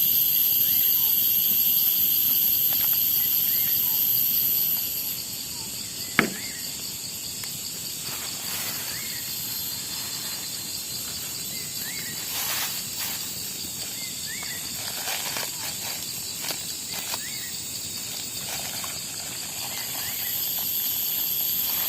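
Night insect chorus of crickets and cicadas, several steady high trilling tones layered together; the highest one drops out about five seconds in and comes back near the end. One sharp click about six seconds in, and a few soft rustles or knocks later.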